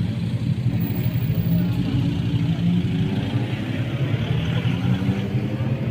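Motorcycle engine running steadily at low revs, its note wavering slightly.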